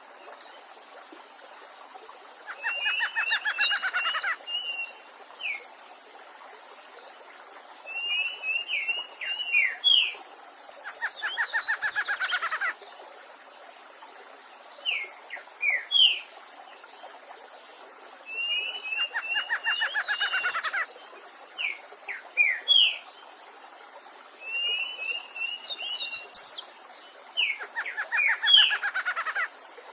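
Songbirds singing over a steady babbling stream: a phrase of short chirping notes ending in a fast, rising trill comes four times, about every eight seconds, with short whistled notes in between.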